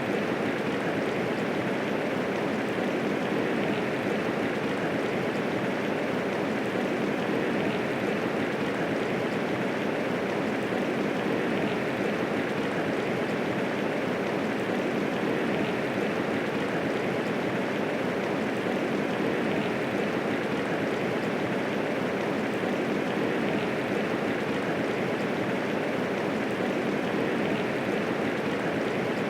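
Medium rainfall, a steady even hiss of rain with no thunder.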